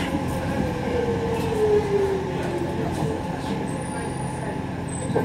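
Docklands Light Railway train running on the track, heard from inside the passenger car: a steady rumble with a few sharp clicks of the wheels over rail joints, and a whine that falls in pitch about a second in.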